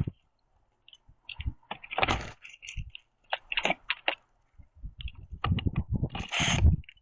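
Northern cardinals at a wooden platform feeder: clicks and knocks on the wood, with two short rustling bursts and low thumps about two seconds in and again near the end, as birds land and scuffle. Short high chip notes fall in between.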